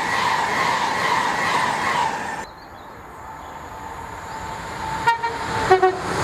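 Train horn held over the noise of a train passing through the station, stopping suddenly about two and a half seconds in. Near the end, two short horn toots, the second lower in pitch.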